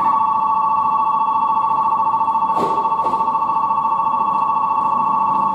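Japanese station platform's electronic departure bell ringing steadily: a fast trilling tone on two close pitches that starts and cuts off suddenly, signalling that a train's doors are about to close.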